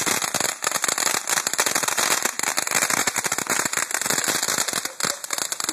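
Firecrackers going off in a rapid, dense crackle of pops, barely pausing, thinning slightly near the end.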